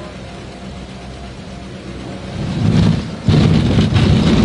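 Small propeller plane's engine running with a steady low hum, getting louder about two seconds in and jumping louder again near the end.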